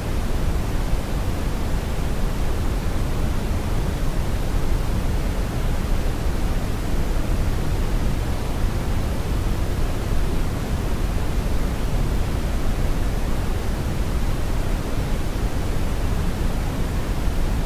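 Steady brown noise: an even, unchanging hiss weighted heavily toward the low end, with no tones or events.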